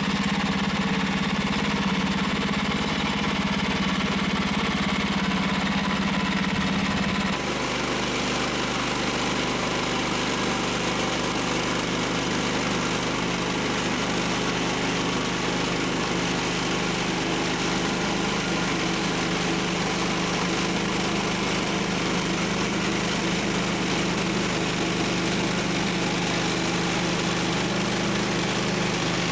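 A small gasoline engine running steadily, its note dropping to a lower pitch about seven seconds in.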